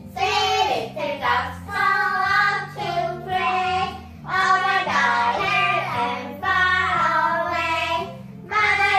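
A child singing a song in several phrases with short breaks, over a backing track of low notes.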